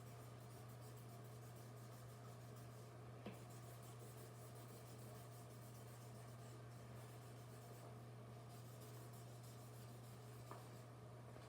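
Faint scratching of a drawing tool on paper as a child draws, over a steady low hum, with one light tap about three seconds in.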